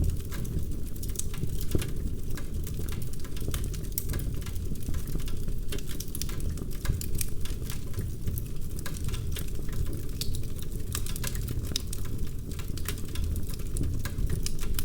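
Fireplace fire crackling: dense, irregular snaps and pops over a steady low rumble.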